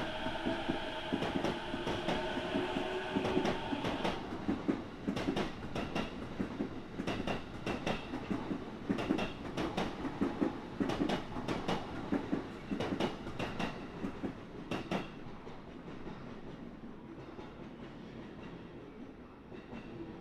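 E233-0 series electric train running: a steady whine for the first four seconds, then wheels clicking over rail joints in quick groups, fading away over the last few seconds.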